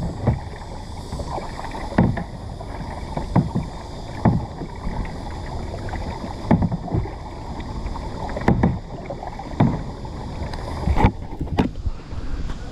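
Kayak paddle strokes splashing into the water, one roughly every second, in a fast, steady paddling rhythm.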